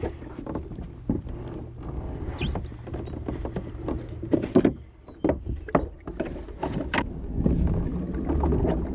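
Kayak hull scraping and knocking as it is slid down the bank and launched, with irregular bumps and scrapes over a steady low rumble.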